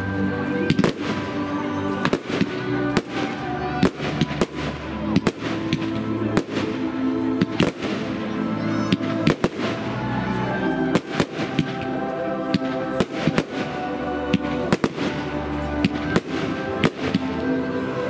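Aerial fireworks bursting in a rapid, irregular string of sharp bangs, several a second, over music with sustained notes and bass.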